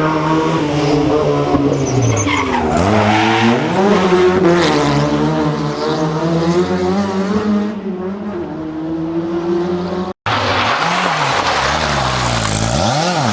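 Historic rally car engine revving hard, its pitch climbing and dropping through gear changes and lifts, with tyres squealing. The sound breaks off abruptly about ten seconds in, then engine revving resumes with quick rises and falls in pitch.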